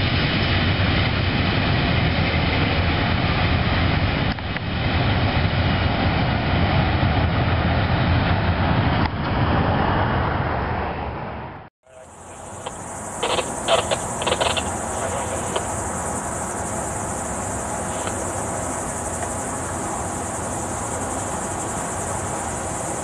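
A freight train of boxcars rumbling past, a loud steady noise that eases off and is cut short about halfway through. Then comes a steady high-pitched insect buzz with a few short sharp sounds, while the train sound is much quieter.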